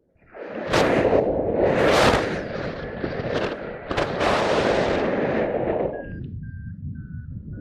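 Wind buffeting the microphone in heavy gusts. From about six seconds in, a paragliding variometer beeps in short tones, each a little lower in pitch than the last.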